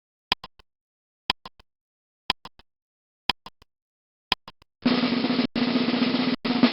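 Timer sound effect: five sharp ticks, one a second, each with a faint double echo, then a loud rattling ring, like an alarm bell, broken twice for an instant, marking time up.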